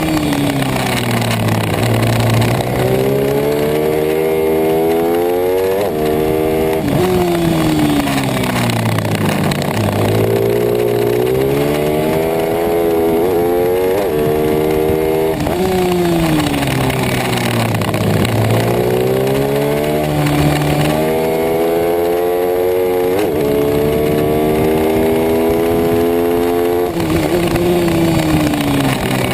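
Pit bike engine racing: the revs climb, drop sharply at each gear change and climb again, then fall away as it slows, over and over through the laps.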